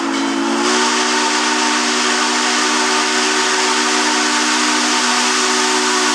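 Steam whistle of Baldwin-built 2-6-6-2 mallet steam locomotive 1309 in one long, steady blast: several tones sound together as a chord over a hiss of steam. The hiss brightens a little under a second in.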